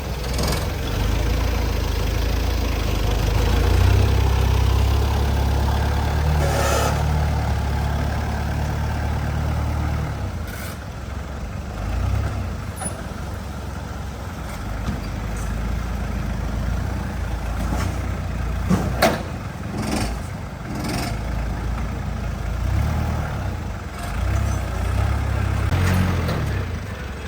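Truck engine running with a steady low rumble, heaviest in the first third, and a few sharp knocks about two-thirds of the way through.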